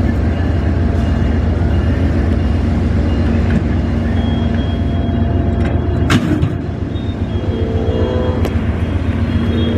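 Amtrak passenger train pulling away and rolling past at low speed: a steady low rumble, with a single sharp clank about six seconds in.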